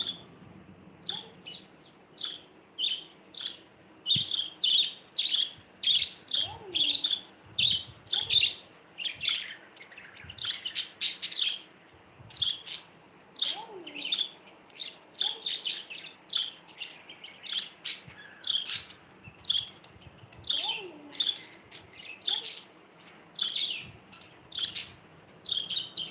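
Budgerigars chirping: a steady stream of short, sharp chirps, busiest and loudest in the first half.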